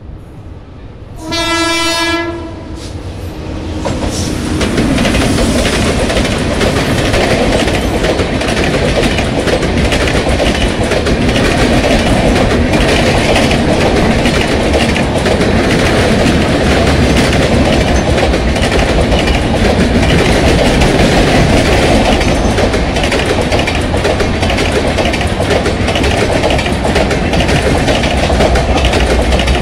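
An Indian Railways electric locomotive sounds one horn blast of about a second. A passenger express's coaches then rumble past close by, loud and steady.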